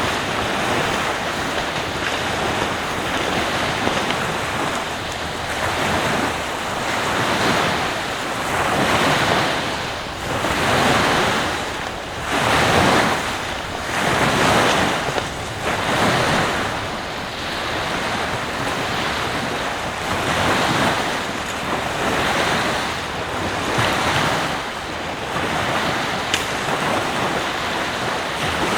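Surf breaking and washing on a beach, the noise swelling and falling away every second or two, with wind buffeting the microphone.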